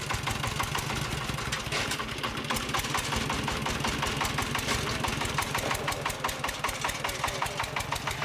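Small engine idling with a steady, fast knocking beat.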